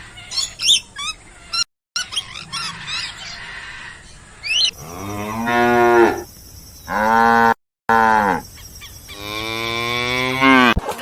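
A cow mooing: three long moos in the second half, the first two close together and the last the longest. Before them, a run of short, high squeaky chirps.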